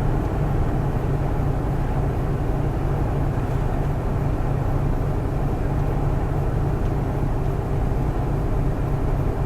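Volvo semi-truck driving at a steady speed, heard from inside the cab: a constant low engine drone with road and tyre noise.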